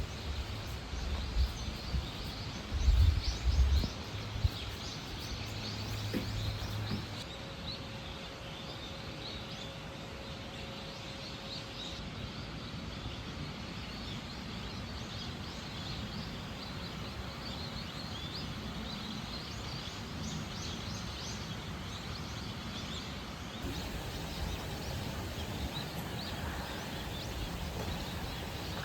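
Outdoor forest ambience: many small birds chirping in short high calls over a steady background hiss, with a few low thumps in the first several seconds.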